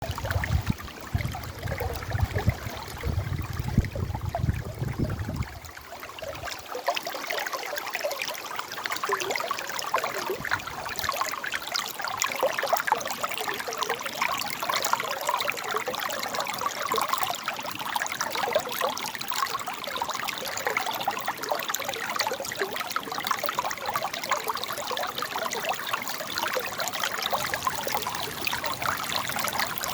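River water babbling and trickling steadily over rocks. A low rumble sits under it for the first five seconds or so, then drops away.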